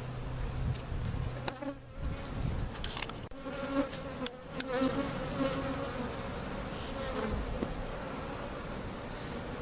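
Agitated honey bees buzzing in flight around the hive after it has been opened and closed up, a wavering drone that grows stronger about three seconds in. A few sharp clicks sound early on top of the buzz.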